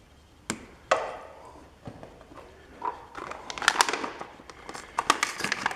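Scattered clicks and light clatter of hands and tools working the fuel line, hose clips and in-line fuel filter on a riding mower, with a denser run of small knocks in the second half.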